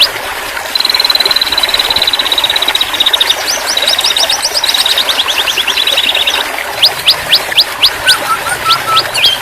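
Songbird singing, taken to be a white-rumped shama (murai batu): long rapid trills near the start, then a series of sharp separate rising notes about two a second, with a few short lower calls near the end. It sounds over a steady rushing hiss.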